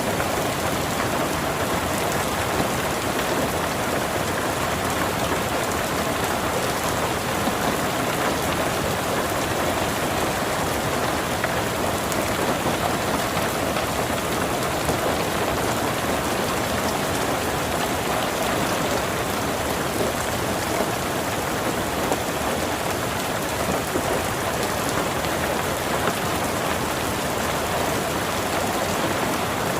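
Steady rain falling, an even, unbroken patter of drops that holds the same level throughout.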